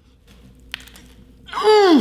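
A man's loud wordless moan of enjoyment, falling steeply in pitch, starting about one and a half seconds in as he tastes a bite of chicken sandwich; a faint click comes before it.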